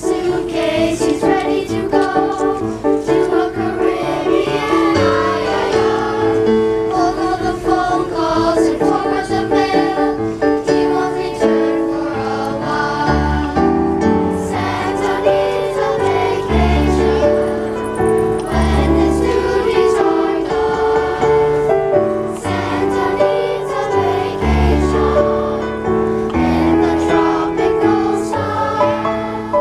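A choir singing a song with instrumental accompaniment, deep bass notes joining about halfway through.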